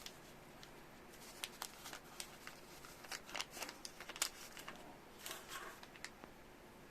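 Faint, scattered crinkling and small clicks of a plastic wrapper being opened and handled around an ajari mochi sweet.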